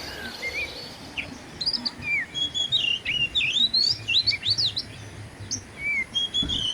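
Wild birds chirping and calling, a busy run of short whistled notes that slide up and down in pitch, several overlapping.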